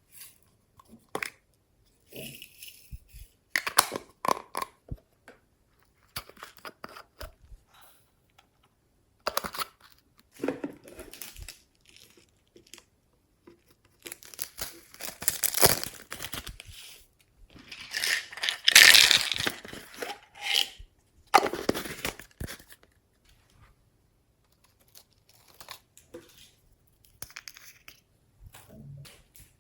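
Glossy slime being squeezed, stretched and folded by hand, making sticky crackling and popping sounds in irregular bursts with silent pauses between. The loudest bursts come about two-thirds of the way through.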